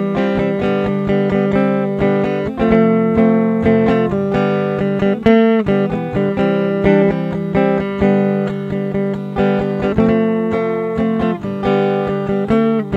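Acoustic guitar strumming chords in a steady rhythm: the instrumental introduction of a song, with no singing yet.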